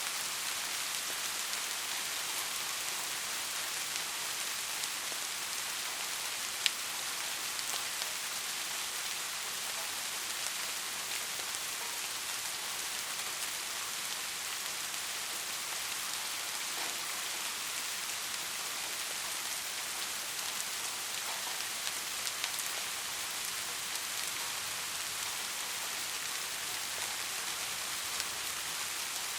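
Steady, even rain hiss, with one sharp tick about seven seconds in and a few fainter ticks scattered through.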